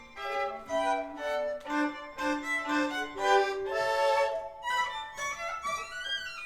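Violin playing a melody of short notes, then a long upward slide in pitch near the end.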